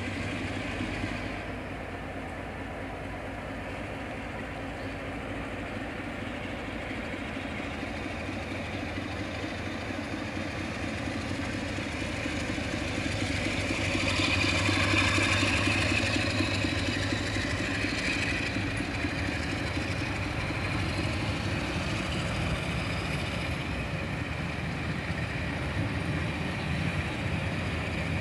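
Steam-hauled heritage passenger coaches rolling slowly along the platform, a steady rumble of wheels on the rails that grows louder about halfway through.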